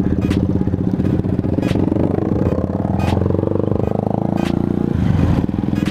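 Motorcycle engine running while riding, its pitch rising and falling as the revs change, with a few short clicks.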